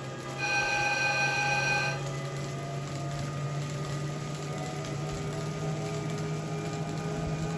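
A pitched electronic chime sounds for about a second and a half near the start, then a steady low hum of N gauge model trains running on the layout.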